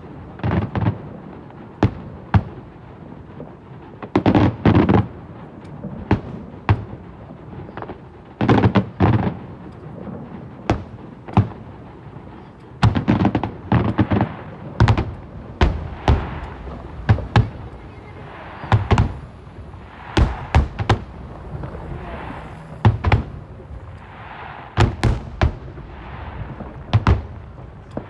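Aerial fireworks shells bursting in a rapid, irregular series of bangs, several in quick clusters, some trailing off briefly after the crack.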